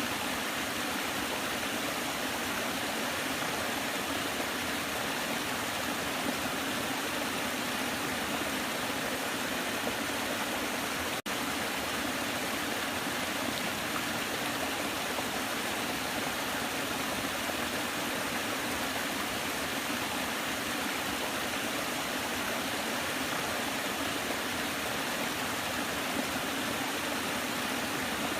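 Waterfall water rushing in a steady, unbroken roar of noise, with a split-second dropout about eleven seconds in.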